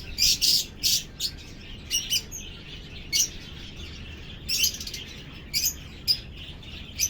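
Alexandrine parakeets giving short, sharp chirping calls, singly and in quick pairs, about a dozen over several seconds.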